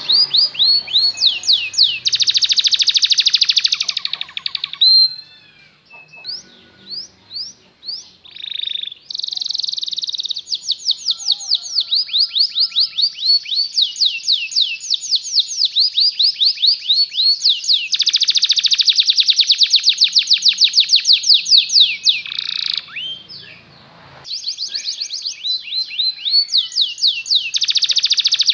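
Canary singing: long runs of fast repeated trill notes and rolls, with a few slower separate notes in two brief lulls, at about 5 to 9 seconds and again at about 23 seconds.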